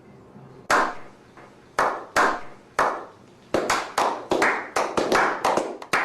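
Hand claps, slow and spaced at first, then faster and faster, each a sharp clap with a short echoing tail; the claps start and stop abruptly out of dead silence, like an edited-in clapping sound effect.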